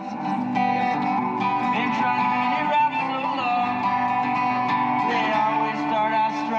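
Music led by plucked guitar, with steady sustained notes.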